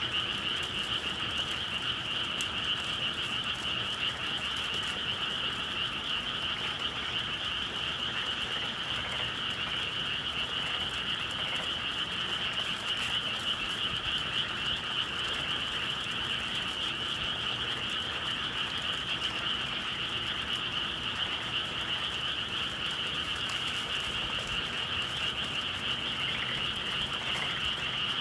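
A dense chorus of many frogs calling at once, a steady unbroken wall of calls with no pauses.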